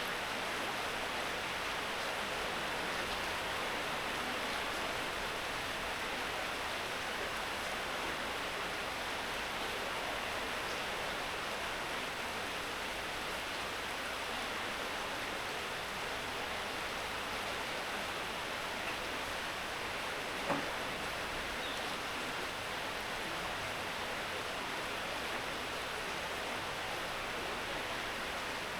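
Steady rain falling, an even hiss with no change in level. A single sharp tap stands out about two-thirds of the way in.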